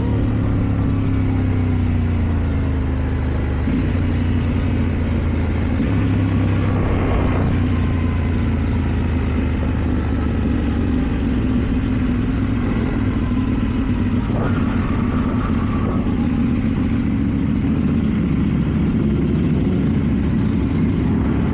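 KTM Duke 790 parallel-twin engine through an Akrapovic exhaust, running under way. The engine note shifts twice in the first six seconds, then holds a steady cruising drone.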